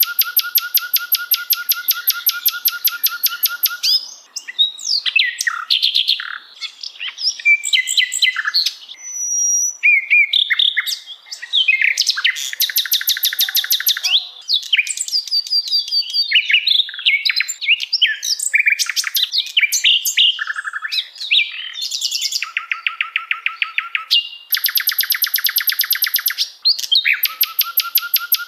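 Recorded songbird song used as masteran for tutoring caged songbirds: long, fast, evenly pulsed chattering trills alternate with quick runs of varied chirps, whistles and sliding notes.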